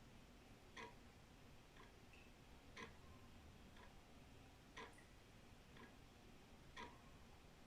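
Old wall clock ticking about once a second, a louder tick alternating with a softer tock.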